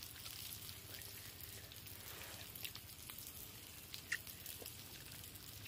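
Faint wet chewing and mouth clicks from a person eating grilled pork-wrapped mushroom, with a sharper click of a bite about four seconds in, over a low steady hiss.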